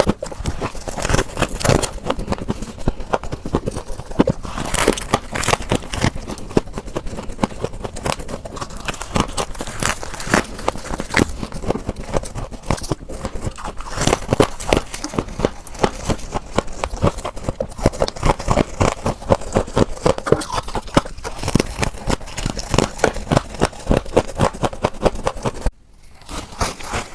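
Close-up crunching of frost ice scraped from a refrigerator being bitten and chewed: a continuous run of rapid, crackling crunches, with a short break near the end.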